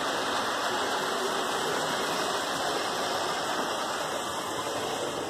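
Model train running on the layout's track, a steady rushing whir of motor and wheels that slowly grows quieter as it heads away into a tunnel.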